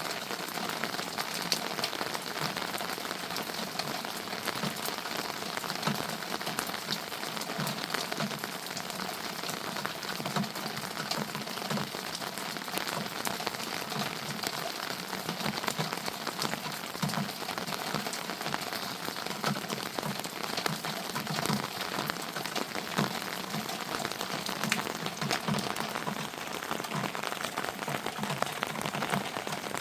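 Steady rain falling, with many sharp drop ticks throughout.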